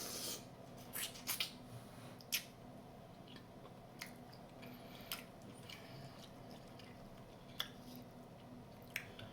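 Jonah crab claws being eaten: scattered sharp clicks and cracks of the shell, about a dozen spread irregularly, with quiet chewing in between.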